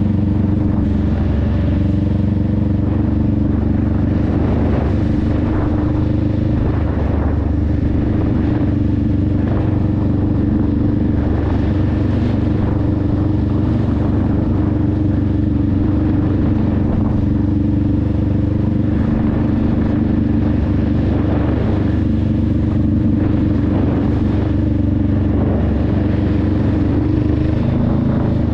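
Honda Rebel 500's 471 cc parallel-twin engine and exhaust running at a steady cruise on the move, the engine note holding nearly constant.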